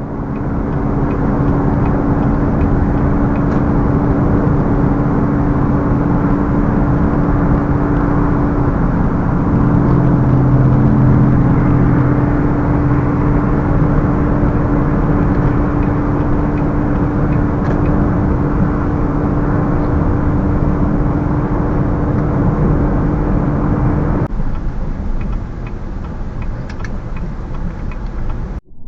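Car driving along a road: steady road and engine noise with a constant hum. The hum drops away and the noise eases about 24 seconds in.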